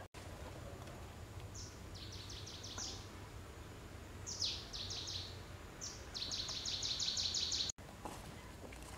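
A bird singing: three bouts of quick, high repeated notes, about seven a second, over a steady low background rumble. The last and loudest bout is cut off suddenly near the end.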